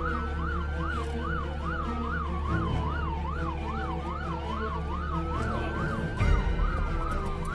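Police sirens during a pursuit: one yelping quickly up and down about three times a second, a second wailing slowly up and down, over the steady drone of a patrol car's engine.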